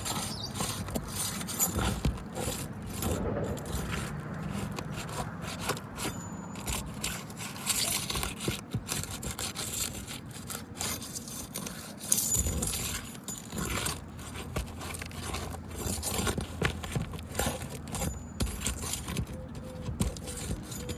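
Asphalt roof shingles being pried loose: irregular scraping with short metallic clinks and clicks as the stapled courses are worked free.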